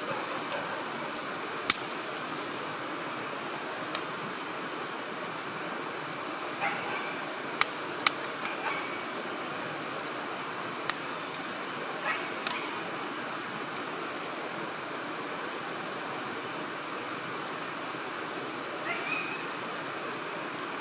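Wood fire crackling in a fire grill over a steady hiss, with a handful of sharp pops scattered through.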